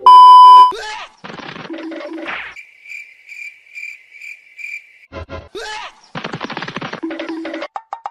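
A loud test-tone beep over a TV colour-bar screen, cut off after under a second, followed by a string of edited-in cartoon sound effects: rattling clicks, short low tones, and a high chirp repeated about twice a second for a couple of seconds.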